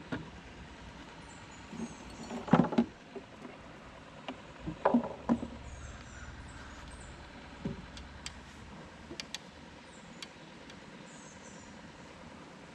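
A few knocks and rattles of gear being handled in a small fishing boat, loudest about two and a half and five seconds in, with lighter clicks later and faint high bird chirps.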